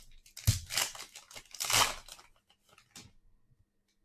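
Foil wrapper of a trading-card pack being torn open and crinkled, in a run of crackling strokes loudest about half a second and just under two seconds in, dying away about three seconds in.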